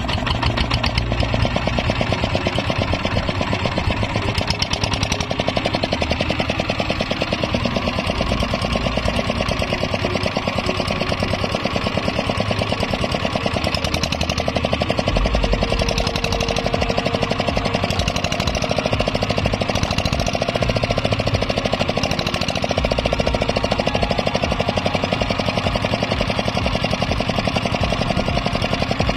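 Kubota 8 HP single-cylinder diesel engine running steadily with a rapid, even knocking beat, the engine turning over under its own power after its seized piston was freed.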